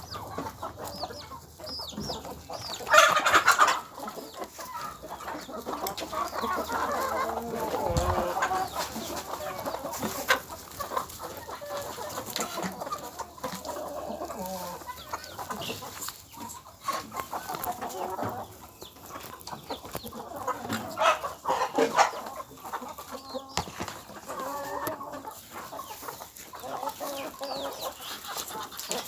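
Chickens clucking continuously, with louder calls about three seconds in and again around twenty-one seconds.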